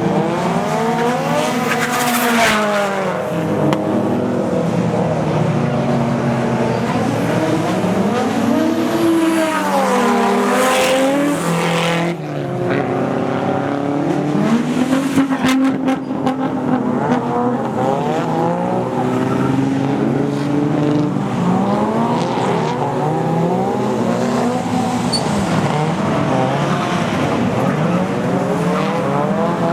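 Drift cars' engines revving hard and falling off again and again, several at once and overlapping, with tyre squeal and sharp bursts of noise now and then.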